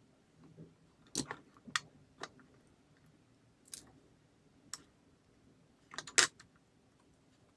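Scattered sharp clicks and light knocks of small parts being handled during hand repair work, about eight in all, with the loudest pair near the end.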